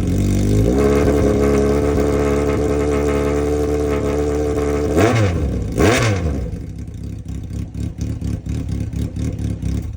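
Honda CBX550F's air-cooled inline-four, breathing through a Friends Endurance aftermarket exhaust, is revved up and held at a steady raised speed for about four seconds. It is then blipped twice and dropped back to a lumpy idle.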